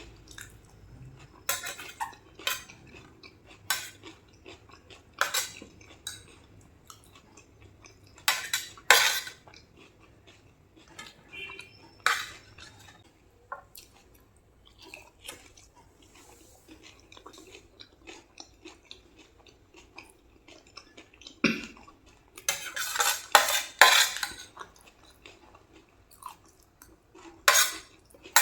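Irregular sharp clinks of a spoon against a plate, mixed with the crunching and chewing of crisp pani puri and dahi puri shells, with a quick run of clinks and crunches near the end.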